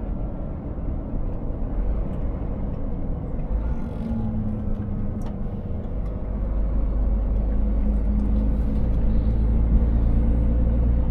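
Scania S 500 truck's engine running while driving, with deep road rumble. About four seconds in, the engine note grows stronger and then holds steady.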